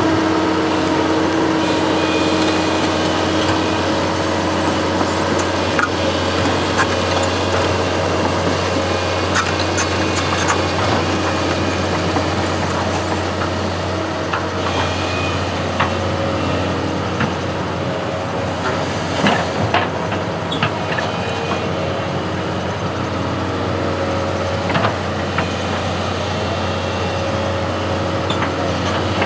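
Heavy construction machine's engine running steadily, with occasional sharp metallic knocks and clanks from the machine working.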